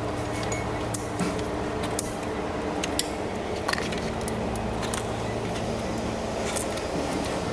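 Plastic trim clips being pried out of a bumper cover with a clip tool: scattered sharp clicks and light rattles, about one a second, over a steady low hum.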